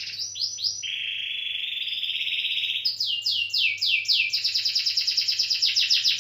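Domestic canary singing: a few quick falling notes, then a sustained rolling trill for about two seconds, followed by a run of falling notes and a fast repeated trill.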